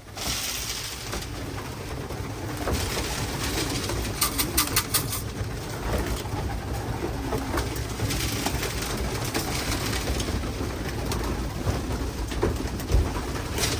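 Racing pigeons cooing and moving about as they come into the loft through the trap, with a quick run of sharp clatters about four seconds in.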